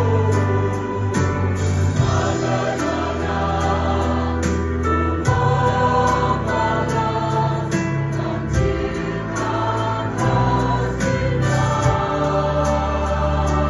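Church choir singing a gospel song over instrumental accompaniment, with held bass notes and a steady beat.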